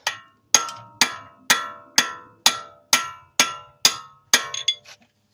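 A hammer strikes a long steel socket extension about ten times, roughly two blows a second. Each blow rings metallically, and a couple of lighter taps follow near the end. The blows are driving the inner end of a 2008 BMW 528xi's front right CV axle into the transmission to seat it.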